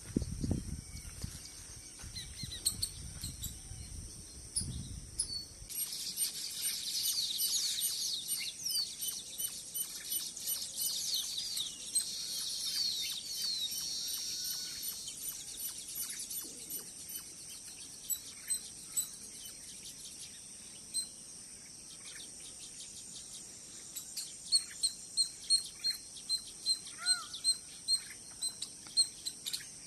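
Birds chirping and calling: a dense stretch of high chirps and trills, then a run of sharp notes repeated about twice a second near the end. A low rumble underlies the first few seconds.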